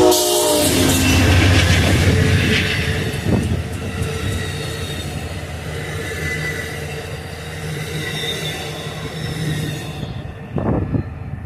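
A train passing close by: its horn blast cuts off in the first half-second, leaving a heavy engine rumble and then railcars rolling with steady high-pitched wheel squeal. The sound changes abruptly near the end, the high squeal gone.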